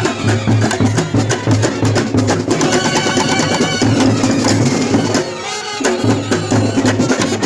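Loud drumming with fast, dense strikes over a steady low beat, joined by a pitched melody instrument in the middle; the drumming drops off briefly about five and a half seconds in, then resumes.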